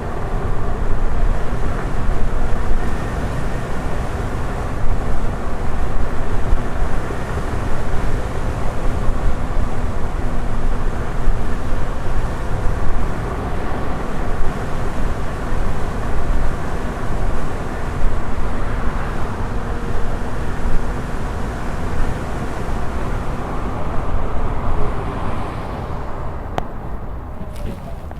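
Wind rush and rumble on the microphone while riding a Blitz electric unicycle, with a faint steady hum underneath. It eases off near the end.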